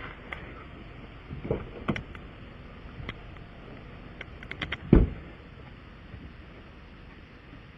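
A few scattered knocks and clicks of handling work, with one heavy thump about five seconds in, the loudest sound.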